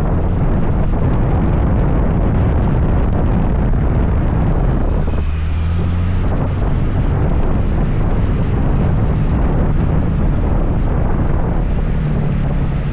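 Scooter ride with heavy wind rushing over the microphone and the scooter's engine and road noise underneath. A brief steady low tone comes in about five seconds in.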